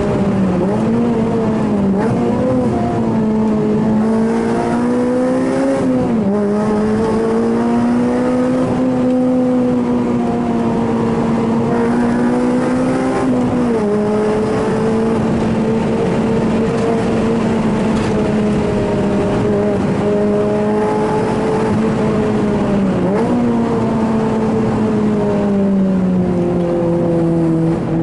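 Honda Civic four-cylinder engine heard from inside the cabin, held high in the revs under hard driving. Its pitch wavers and dips suddenly about 6, 14 and 23 seconds in, then sinks lower near the end.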